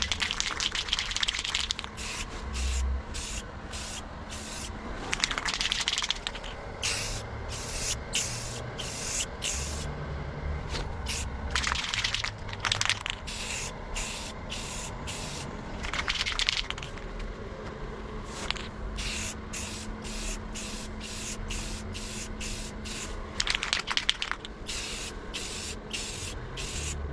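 Aerosol can of clear enamel spraying in many short hissing passes with brief gaps between them, with a few longer, stronger blasts along the way, as a light coat of clear goes onto painted metal.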